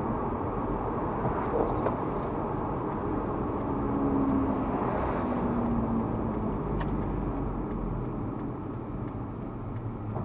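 Steady engine and road noise of a car driving, with a faint pitched tone for a few seconds mid-way.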